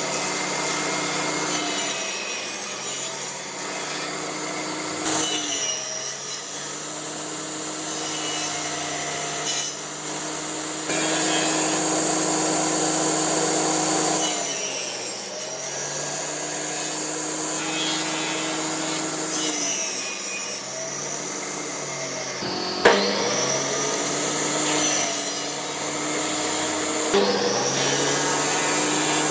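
An electric power tool running against wood with a steady motor whine and a rough rubbing, grinding noise. The motor's pitch sags and recovers several times as the tool is loaded and eased off.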